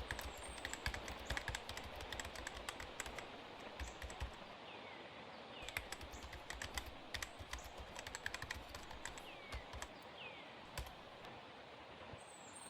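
Faint typing on a keyboard: irregular runs of quick clicks with short pauses between them. A few faint, short, high falling chirps sound now and then.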